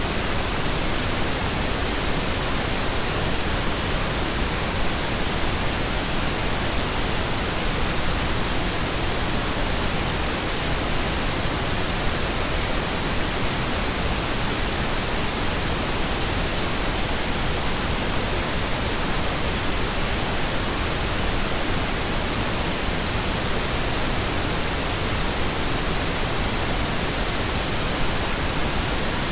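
Steady, unchanging pink noise: an even hiss across the whole range, played continuously as a sleep aid.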